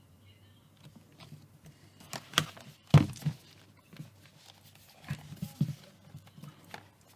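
Scattered knocks and taps from handling the laptop and its packaging on a desk. The loudest thump comes about three seconds in, and a cluster of lighter taps follows about two seconds later.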